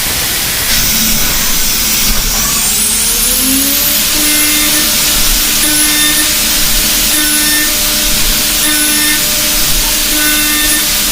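CNC milling machine cutting heat-resistant superalloy with a ceramic end mill, a steady loud hiss of cutting. A tone rises between about two and four seconds in, then a high-pitched cutting tone recurs about every second and a quarter as the tool repeatedly engages the workpiece.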